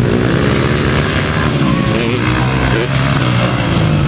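Several motocross motorcycle engines running and revving together, their pitches rising and falling.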